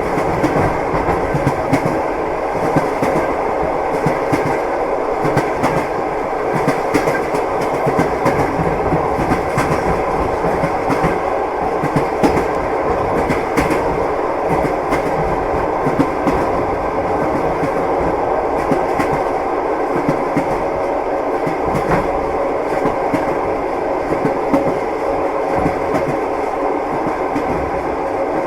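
Train wheels clacking over the rail joints, heard from inside a moving railway carriage, over a steady running rumble.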